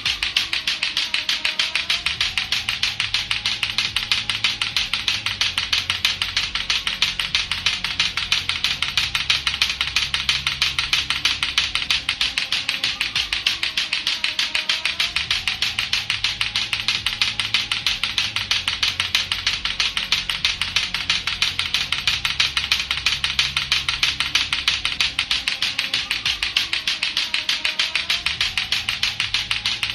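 Lato-lato clackers, two hard plastic balls on a string knocking together fast and without a break, a steady rapid run of sharp clacks.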